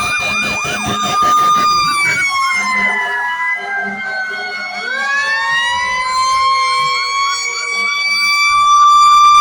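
Fire truck sirens blaring together. One siren holds a high wail, winds down over a couple of seconds, then rises back up to full pitch and holds. Another siren yelps rapidly over it at the start.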